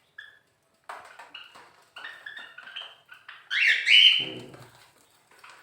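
Caged pet birds chirping: a scatter of short, high chirps, with the loudest cluster a bit under four seconds in and a brief lower call just after it.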